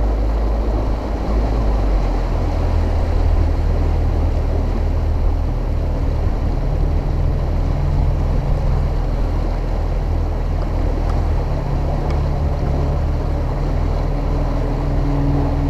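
Mercury outboard motor on a bass boat running at speed during its break-in, with steady wind and water rush. The engine note steps up about two seconds in.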